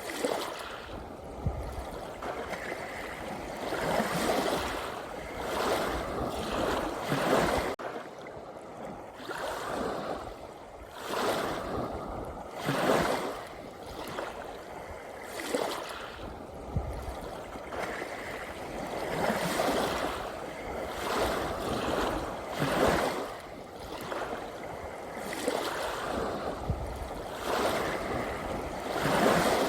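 Gentle sea waves washing in and drawing back, a swell of surf every few seconds.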